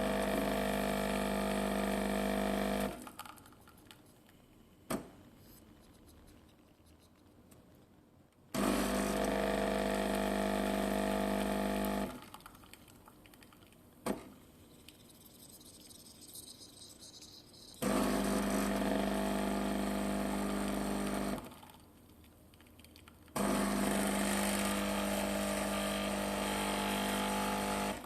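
A small BlitzWolf electric appliance switched on and run four times for a few seconds each, giving a steady buzzing hum that starts and stops abruptly, with a single click in two of the pauses.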